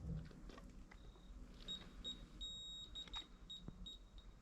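Laser level beeping faintly in short, high, single-pitched beeps at an uneven pace, with one longer held tone about halfway through. The beeps signal where the beam sits against the laser line while it is being levelled.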